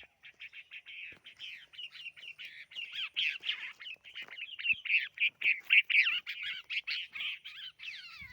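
Small birds at a nest chirping rapidly: a fast, unbroken run of short high chirps, several a second, growing louder through the middle.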